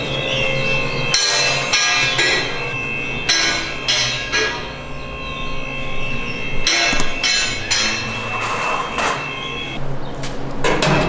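Irregular metallic knocks and clanks in clusters from a loose exhaust system being checked to find where it is loose; the pipe is loose and rattling.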